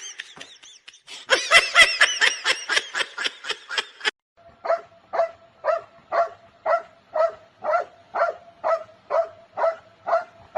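A dog barking: a quick burst of high yips for about four seconds, then after a brief pause a steady run of barks, about two a second.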